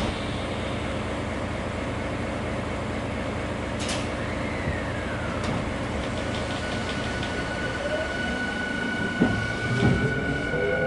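Tokyu 5000 series train heard inside a motor car, with a steady rumble and a few clicks. Near the end its IGBT VVVF inverter and traction motors start whining, several tones rising together in pitch as the train accelerates.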